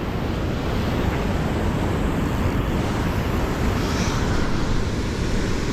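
Steady rushing of a flowing river, with wind buffeting the microphone in an uneven low rumble.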